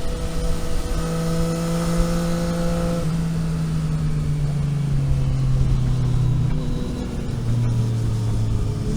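Vehicle engine heard from on board at moderate, steady revs, over road noise. About three seconds in the pitch begins to fall slowly as the revs drop, then it holds at a lower note near the end.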